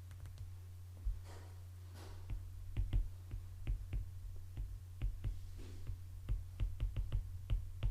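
Quiet run of short, irregular light clicks or taps, about three a second, starting about a second in, over a steady low electrical hum.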